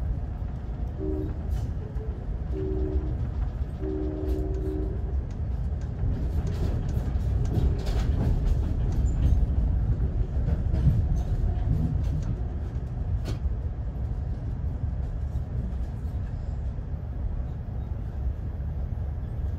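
Amtrak passenger train heard from inside the coach: a steady low rumble of the train running on the rails. The train horn sounds faintly in several short blasts in the first five seconds. Scattered clicks and knocks from the wheels and track follow a few seconds later.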